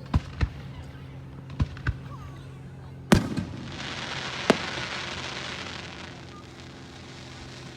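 Fireworks going off: four sharp bangs in the first two seconds, then the loudest bang about three seconds in, followed by about two seconds of hiss with one more sharp bang in the middle of it.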